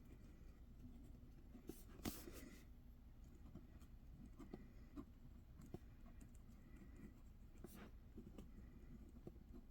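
Faint scratching of writing by hand on paper, with a few light ticks and taps from the writing implement.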